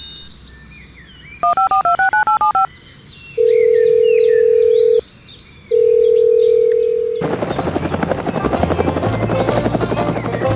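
Telephone sound effect: a quick run of beeps alternating between two pitches, then two long steady tones with a short gap between them, like a call ringing out. Faint high chirps sound under the tones, and music starts about seven seconds in.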